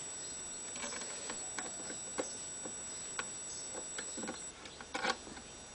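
Kittens moving about, their paws and claws making light, irregular taps and clicks on a hard floor, with a quick flurry of taps about five seconds in.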